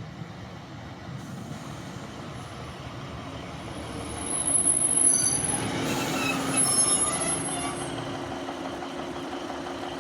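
A passenger train at a station platform, its running rumble building to a high-pitched wheel and brake squeal in the middle, then settling to a steady low hum.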